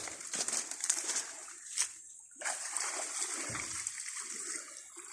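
Irregular small splashes and sloshing of shallow pond water, with a brief break about two seconds in.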